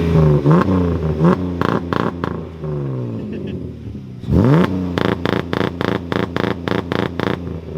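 BMW E36 engine revved through a straight-through aftermarket exhaust with the resonator and primary muffler deleted: several revs rising and falling back, a big rev about four seconds in, then a quick run of short sharp throttle blips. It is loud.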